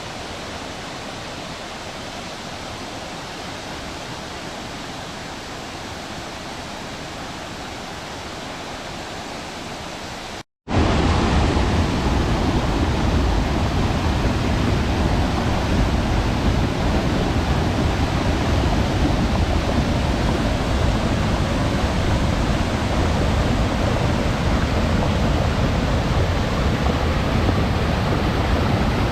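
Waterfall: a steady rush of falling water. About ten seconds in, the sound cuts out for an instant and comes back louder and deeper.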